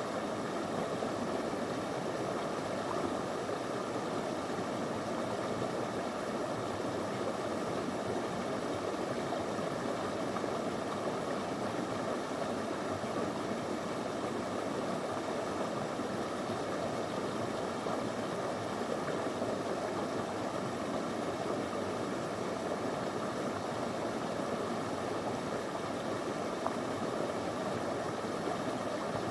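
Small shallow river flowing steadily over stones, a constant rushing of water.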